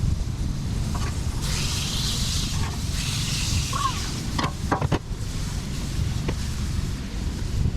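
Wind buffeting the microphone in a steady low rumble, with a hiss swelling about a second and a half in and fading after two seconds or so, and a few short knocks near the middle.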